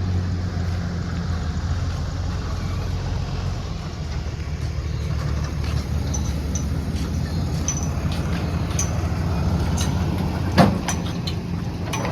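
Steady low hum of a vehicle running, heard from aboard, with a single sharp knock about ten and a half seconds in.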